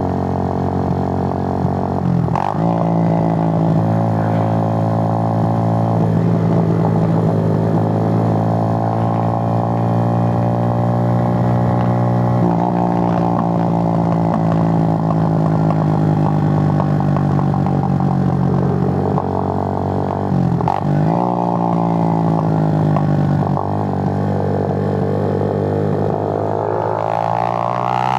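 Suzuki GN125's single-cylinder four-stroke engine pulling at a steady road speed, its note holding even, with brief drops and recoveries in engine speed about two seconds in and again around twenty and twenty-three seconds.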